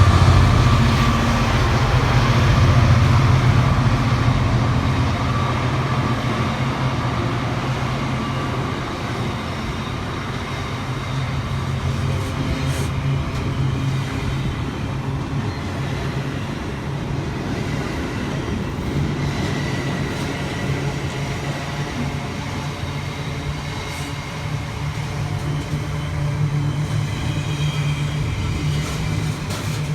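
A train running through the station: loudest at the start and easing off, over a steady low hum, with a few faint clicks.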